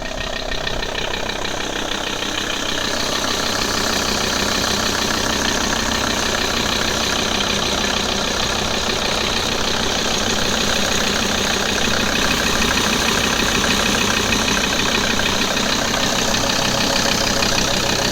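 Audi A6 C4's 2.5 TDI (AEL) five-cylinder turbodiesel running with a dense, even diesel clatter, posted for a strange noise that the owner has not identified. The sound grows louder over the first few seconds, then holds steady.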